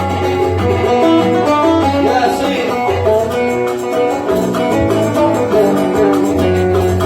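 Oud playing an instrumental passage of a Yemeni Sanaani song: quick runs of plucked notes over repeated low bass notes.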